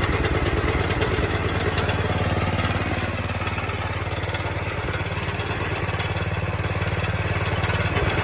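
Engine of a 1970 Sears 10XL garden tractor running steadily at about half throttle, newly started.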